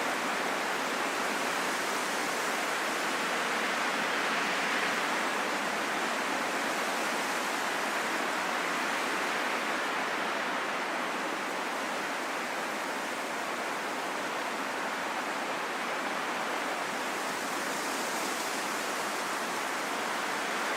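Steady wind noise, an even hiss that swells gently and eases back a couple of times, with no low rumble.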